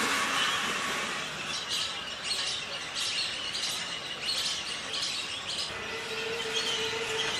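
Birds calling: a quick run of short, high calls, two or three a second, over outdoor background noise, fading out after about five seconds. A steady low tone comes in near the end.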